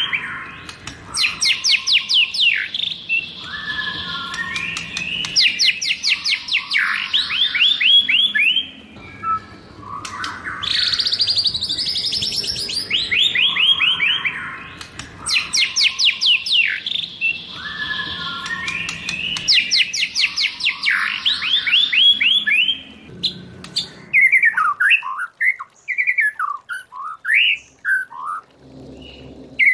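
White-rumped shama singing: loud phrases of fast trills and rattles, and near the end shorter separate whistled chirps.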